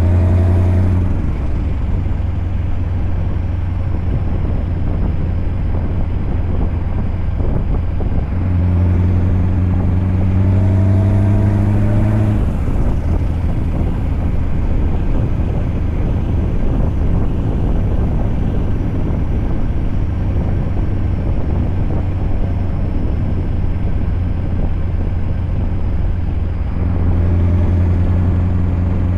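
Scania V8 truck engine running steadily. About eight seconds in, and again near the end, a stronger engine note rises in pitch for a few seconds as the engine pulls harder.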